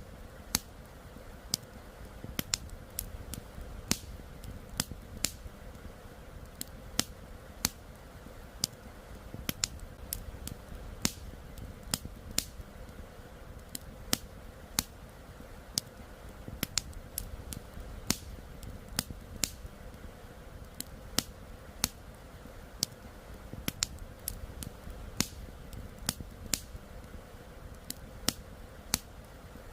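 Wood fire crackling, with sharp irregular pops about one or two a second, over a steady low rush of flowing river water.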